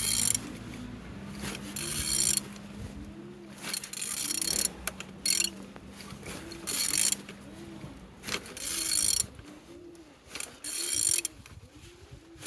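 Opel Z16XEP four-cylinder petrol engine being turned over by hand with a ratchet wrench: repeated bursts of ratchet clicking, with the engine turning freely.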